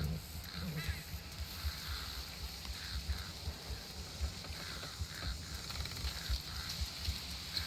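Outdoor nature ambience: a steady high hiss with irregular low rumbling and faint scattered calls.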